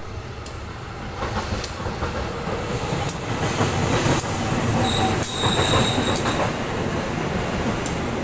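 A CC 201 diesel-electric locomotive and its passenger coaches passing with a steady rumble of wheels on rail that builds as the locomotive comes near. Sharp clicks are heard here and there, and a brief high squeal comes from the wheels about five seconds in.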